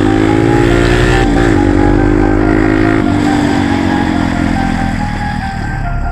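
Dirt-bike engine running under steady throttle, with a brief wobble in revs about a second in and a slow sag in pitch toward the end.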